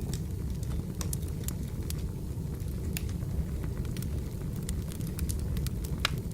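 Wood fire burning with a steady low rumble and irregular sharp crackles and pops, one louder pop about six seconds in.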